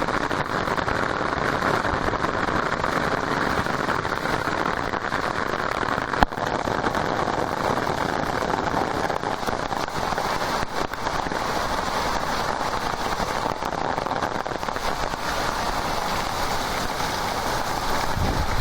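Heavy torrential rain pouring down steadily in a downpour, with one short sharp knock about six seconds in.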